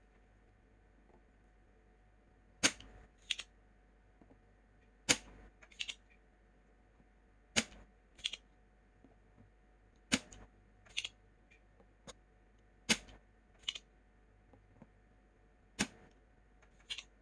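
Sharp clicks in pairs, a loud click followed by a softer one under a second later, repeating about every two and a half seconds.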